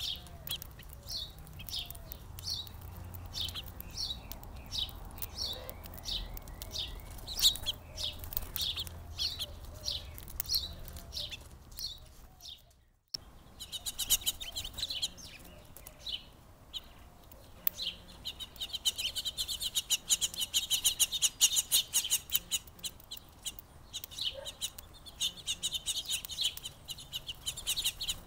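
Small songbirds chirping over and over in short high notes. The sound cuts out briefly about halfway through, and in the last third the chirps come thick and fast.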